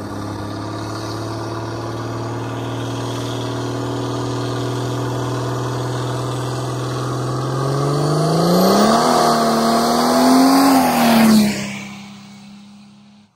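Mercedes-Benz 300D's OM603 straight-six turbodiesel, fitted with a Holset HE351 turbo, running at steady revs, then accelerating hard. Its pitch rises as it comes on, drops sharply as the car passes close by, and the sound fades away.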